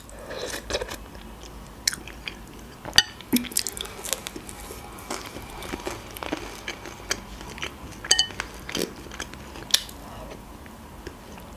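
Close mouth sounds of eating: spoonfuls of lentil soup and pizza being chewed, a string of small wet clicks and smacks.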